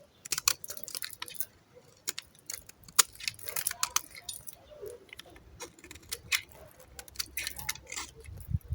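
Dry soap being cut with a knife: a run of sharp, irregular crunches and crackling clicks, with a low thud near the end.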